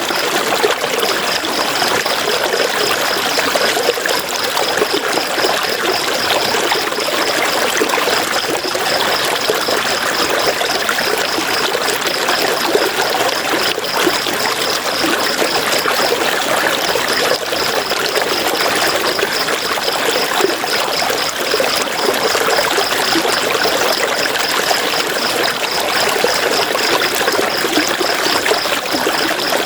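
River water flowing steadily over stones, a constant babbling rush. Over it runs a high, rapidly pulsing chirp that breaks off briefly a couple of times.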